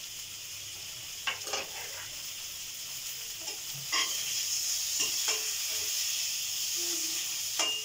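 Chopped onion, tomato and aromatics frying in ghee in a kadhai with a steady sizzle. A spatula scrapes and knocks against the pan several times as the mixture is stirred.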